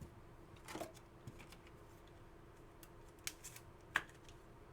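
Faint handling of trading cards and pack wrappers: a short rustle a little under a second in, then a few sharp clicks about three and four seconds in, over a faint steady hum.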